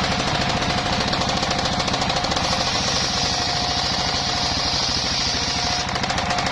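Portable circular sawmill sawing bayur wood: its engine runs in a fast, steady pounding rhythm under a steady whine. A high hiss rides on top and drops away near the end.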